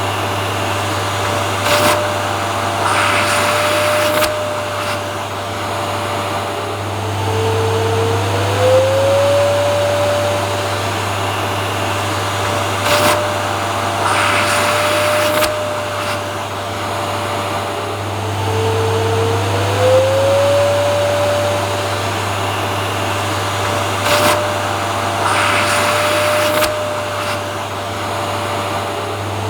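Vacuum cleaner running continuously: a steady low hum and motor whine over airflow noise. About every eleven seconds the whine dips in pitch and glides back up, and there are brief hissy surges in between, in an evenly repeating pattern.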